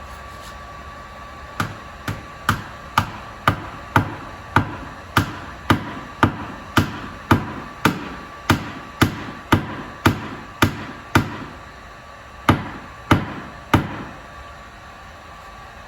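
Paintless dent repair tap-down: a small hammer tapping a knockdown tool against a vehicle's sheet-metal body panel, about two sharp taps a second, pausing briefly near the end before three more taps.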